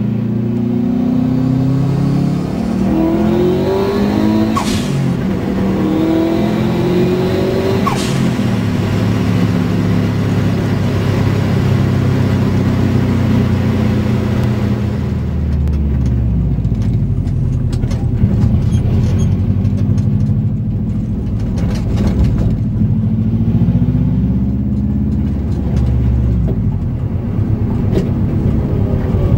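Turbocharged Subaru EJ207 flat-four in a 1972 VW Beetle, heard from inside the cabin, accelerating hard with rising revs. Each of two climbs ends in a sharp noise at the gear change, about four and a half and eight seconds in. Later the engine runs at lower, steadier revs.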